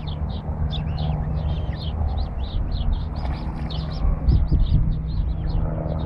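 Birds chirping: a rapid series of short, high chirps, about four a second, over a steady low rumble.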